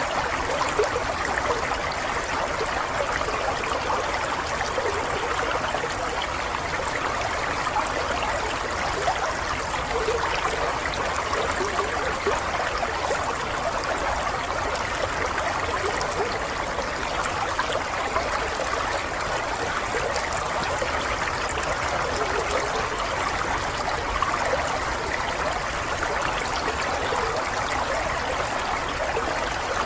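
Stream water running and trickling over stones, a steady babbling flow with fine splashing detail.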